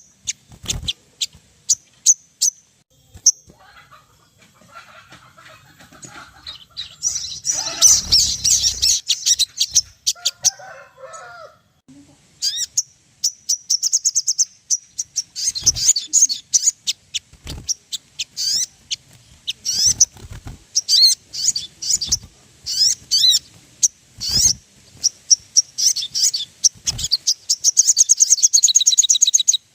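Sogon sunbird song: quick, high-pitched chirps and fast trills, broken up by short pauses, with dense runs of song about 8 seconds in, again around 15 seconds, and near the end.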